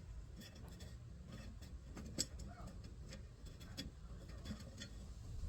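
Faint scattered small clicks and ticks of a screwdriver and fingers working the screws on a metal carriage light, with one sharper click about two seconds in, over a low steady outdoor rumble.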